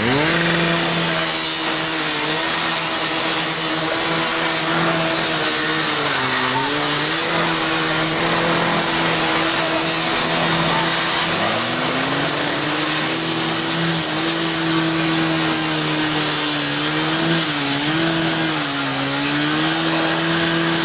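Gas-powered saw running at high revs with a wide rasping hiss. It sags briefly about a quarter of the way in, drops nearly to idle around the middle and revs back up within a second, then wavers again near the end.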